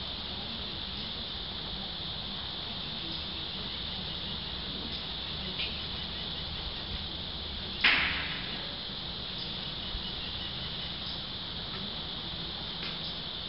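Steady high-pitched insect trilling, like a cricket chorus, with a few faint clicks. One loud, sharp knock comes a little past halfway and dies away quickly.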